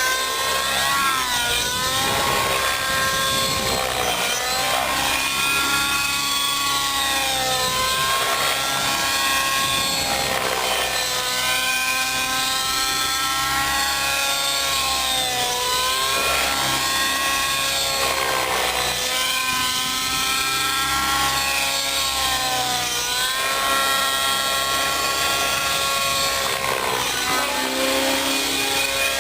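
Nitro-powered RAVE ENV radio-controlled helicopter in flight, its glow engine and rotor running continuously, the note dipping and rising in pitch every few seconds as it manoeuvres.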